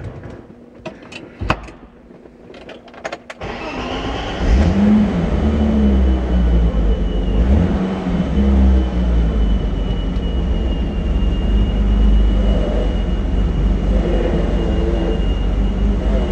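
BMW E30's freshly swapped-in M20B25 2.5-litre straight-six starting for the first time since the swap: a few clicks, then the engine catches about four seconds in with a brief rev and settles into a steady idle. A thin, steady high whistle runs over the idle.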